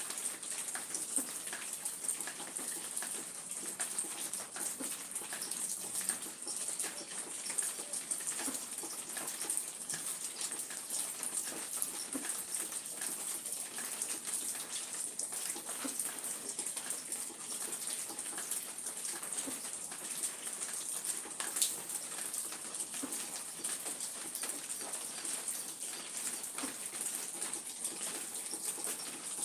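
Rain falling steadily: a continuous high hiss with many scattered drops tapping.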